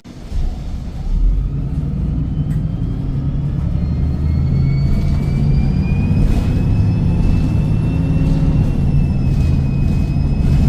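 Diesel bus engine pulling hard under heavy throttle, with a steady low rumble and a high turbocharger whine that rises in pitch about four seconds in and then holds.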